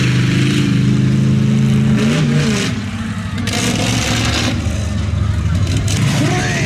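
Large vehicle engine running and revving, its pitch rising and falling, easing off briefly about three seconds in.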